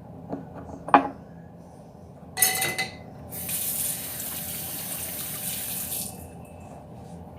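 Water running from a tap for about three seconds, starting and stopping fairly abruptly, after a sharp click and a short clatter.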